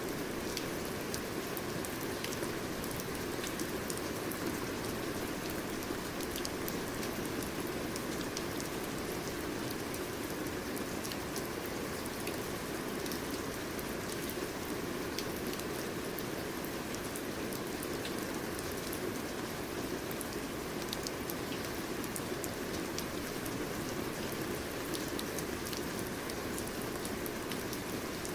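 Steady rain falling on a surface, a continuous hiss with many fine drop ticks.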